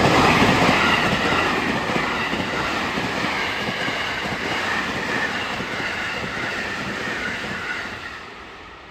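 A train running past on the rails, wheels on track making a dense rumbling clatter with a faint high squeal; loud at first and fading steadily as it moves away.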